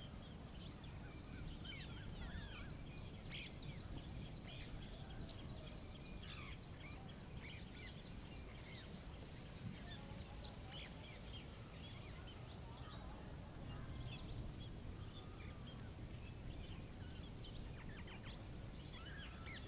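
Many small birds chirping and trilling, short high calls coming thick and fast throughout, over a steady low rumble.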